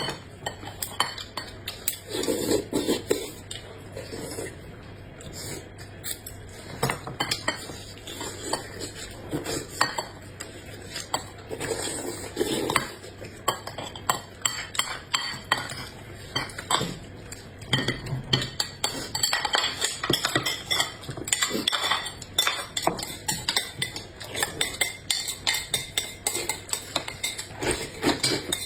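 Eating utensils clicking, clinking and scraping against dishes at an irregular pace as food is picked up and eaten.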